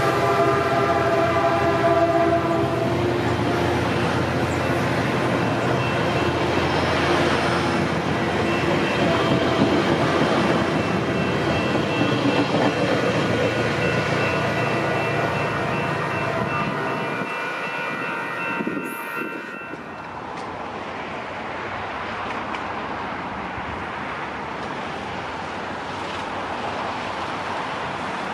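Caltrain commuter train of Bombardier bilevel cars rolling past at close range, with a steady ringing of several tones, likely the grade-crossing bell, over the wheel rumble. Both stop suddenly about 19 seconds in, leaving a quieter, steady rumble of a distant train approaching.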